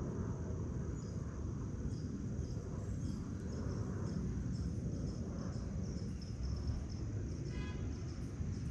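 Outdoor ambience: insects, likely crickets, trilling steadily at a high pitch over a constant low rumble. A brief animal call is heard about seven and a half seconds in.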